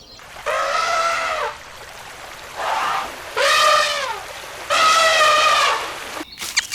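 Three long, steady, high-pitched animal calls, with a shorter, weaker one between the first two.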